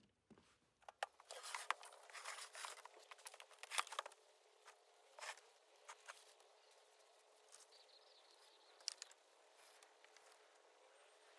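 Faint scratchy rustling and small irregular clicks and ticks, busiest in the first half, then mostly quiet hiss.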